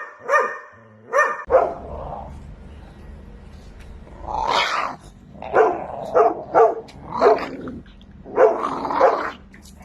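A dog barking in short, sharp barks, then growling and barking in a run of barks with longer, drawn-out growly barks in between.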